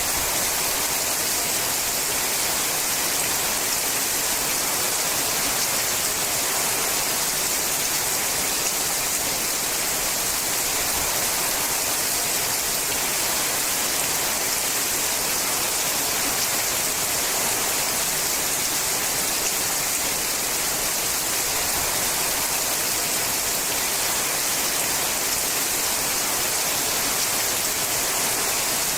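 Rain falling steadily on a sheet-metal roof: an even hiss of countless drops.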